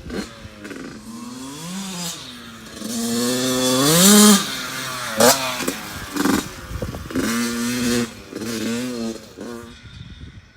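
2014 Yamaha YZ85's two-stroke single-cylinder engine revving up and down while the dirt bike is ridden, its pitch climbing to a loud peak about four seconds in and rising again several times after. A sharp knock comes about five seconds in.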